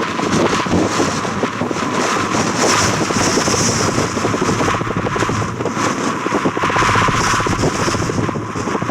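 Strong, gusty wind buffeting the microphone: a loud, continuous rough rush with rapid flutter.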